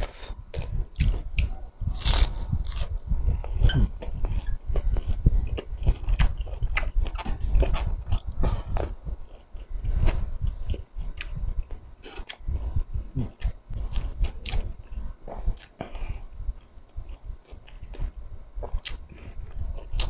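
Close-miked chewing and biting of crispy deep-fried pork intestine (chicharon bulaklak), with irregular crunches all through.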